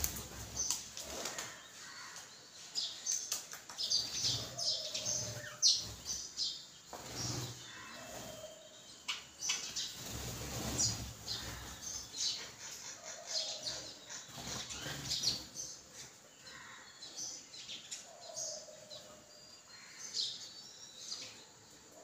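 Birds chirping, with many quick high chirps and a lower short call repeated every four to five seconds, and wing flapping as birds fly off and land.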